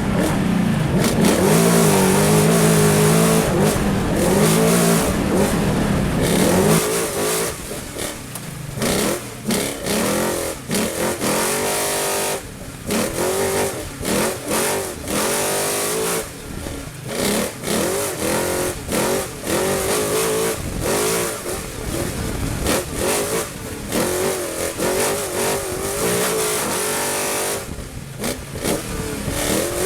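Trophy Truck race engine at full throttle, held at steady high revs for the first several seconds, then revving up and dropping again and again as the driver lifts off, shifts gears and drives through a twisting section of the off-road course.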